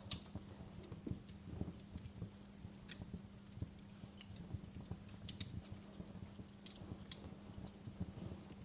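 Wood fire crackling in a fireplace: irregular sharp pops and snaps mixed with softer low ticks, over a faint steady hum.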